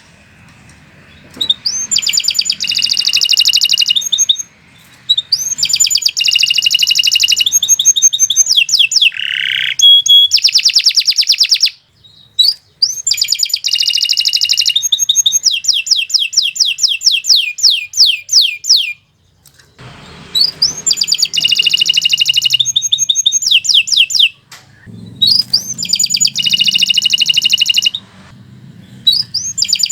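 Domestic canary singing long phrases of rapid high trills and quickly repeated rising notes, broken by short pauses of about a second between phrases.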